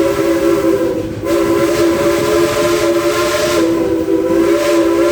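Steam whistle of the 1943 Baldwin narrow-gauge Mikado locomotive No. 192, blowing a chord of several notes. The blast breaks off briefly about a second in, then a second long blast follows.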